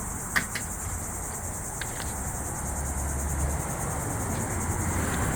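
Steady high-pitched drone of singing insects, finely and rapidly pulsing, with a low rumble underneath and a couple of faint clicks in the first two seconds.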